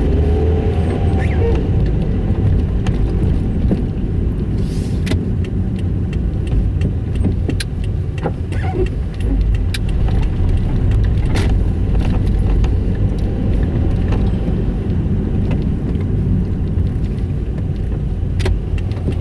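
Toyota Yaris moving with a steady low rumble and grinding, with scattered light clicks and rattles: the grinding noise the car makes in reverse.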